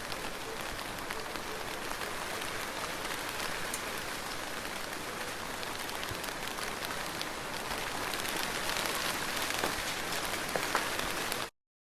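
Soft rain falling steadily, a gentle hiss with the patter of many individual drops; it cuts off suddenly to silence near the end.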